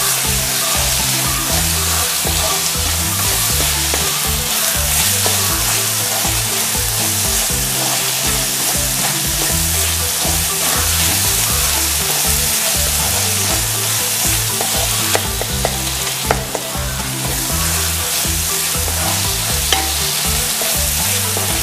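Sliced onions, shallot paste and chopped tomatoes sizzling in coconut oil in a nonstick pan, stirred with a wooden spatula, while they sauté until the raw onion smell is gone. A steady frying hiss, with a few sharp clicks in the second half.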